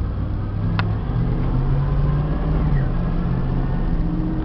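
Engine of a 1994 Ford F600 box truck, a 7.0-liter V8, running under way with road noise. Its pitch steps up a little about a second in, and a single sharp click comes just before.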